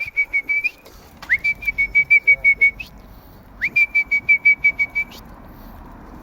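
A person whistling a high note in three runs, each starting with a quick upward slide and then held on one pitch, warbling about eight times a second for a second or two.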